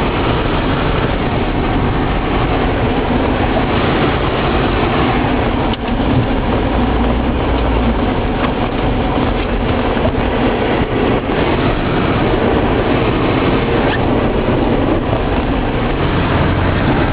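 A car driving on a snow-covered road, heard from inside the cabin: a steady rumble of engine and tyre noise.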